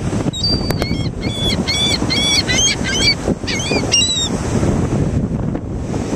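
Gulls calling: a run of short, repeated calls lasting about four seconds, over steady wind noise on the microphone.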